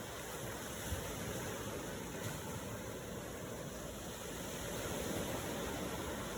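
Steady rushing water, an even low noise with no distinct events, swelling slightly about four to five seconds in.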